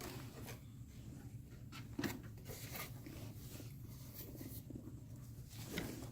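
Faint clicks and rustling of small equipment parts being handled by hand, one click a little sharper about two seconds in, over a low steady hum.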